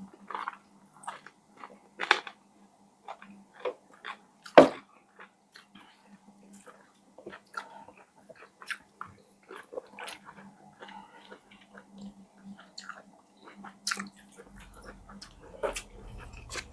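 Close-up chewing and biting of crispy fried chicken: scattered short crunches and wet clicks, the loudest a sharp one about four and a half seconds in, over a faint steady hum.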